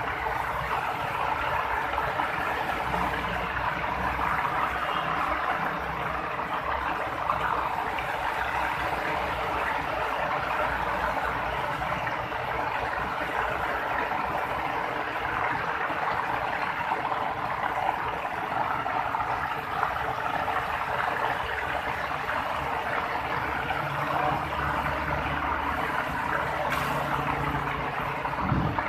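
Heavy rain falling in a steady downpour, with cars and motorbikes driving through floodwater on the street; a low engine rumble rises briefly near the end.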